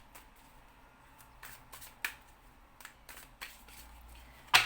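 Tarot cards being handled on a table: a few scattered soft clicks and card slaps, then one sharp snap near the end.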